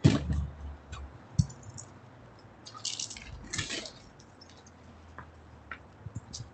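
A loud knock at the start and another sharp knock about a second and a half in, then scattered clicks and two short scraping rustles a little after halfway.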